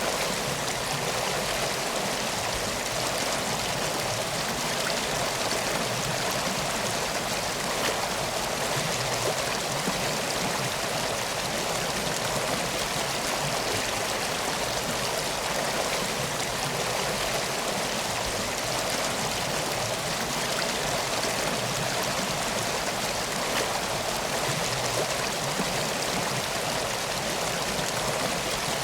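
A stream flowing steadily, a constant even rush of water with no breaks.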